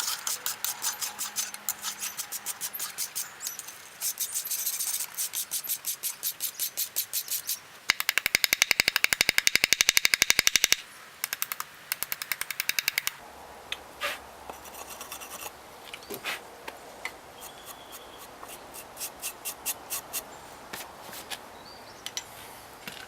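Hammer blows on hot rebar steel at the anvil, striking rhythmically about three times a second. Midway there is a fast, loud run of blows for about three seconds, then scattered lighter taps.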